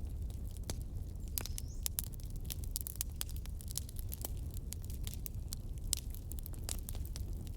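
Wood fire burning in a fireplace: a steady low rumble of flames with frequent irregular crackles and pops from the logs, and a brief faint hiss or whistle of escaping steam about a second and a half in.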